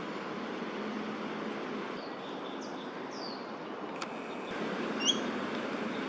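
A few short, high bird calls over a steady hum of city traffic: two falling notes, then a louder, sharper call near the end.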